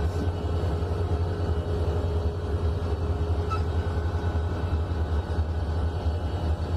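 EMD SD40-2 and SD40-3 diesel-electric locomotives, each with a 16-cylinder two-stroke diesel, running with a steady low rumble and a faint steady hum above it.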